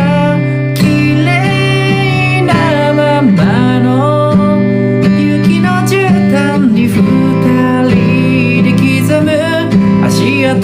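Acoustic guitar accompaniment with a voice singing over it, a solo sing-and-play cover of a pop-rock song.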